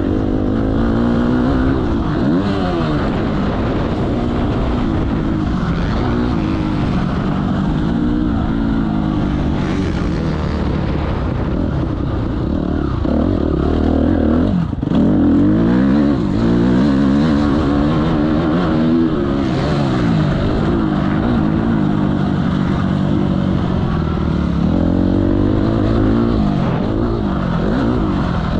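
Motocross bike engines revving up and down, several overlapping, the pitch rising and falling again and again, with a brief drop about halfway through.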